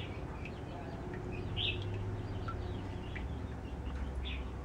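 Birds chirping: scattered short chirps, two of them louder about a second and a half in and near the end, over a low steady rumble.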